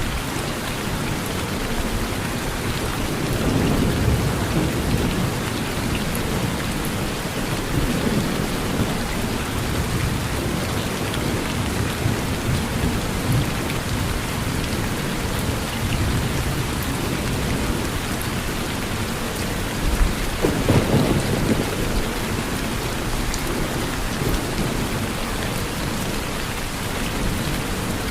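Steady rain falling on a porch, with low rolls of thunder swelling up several times; the loudest comes about twenty seconds in.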